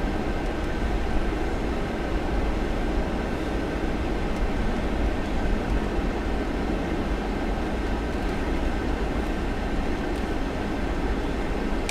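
Steady road and engine noise of a car driving, heard from inside the cabin: an even low rumble with no change in pace.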